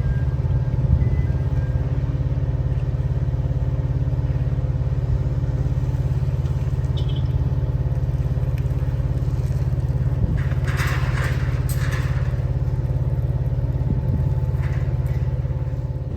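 Engine running steadily with a constant low hum, with a few short clatters about ten to twelve seconds in.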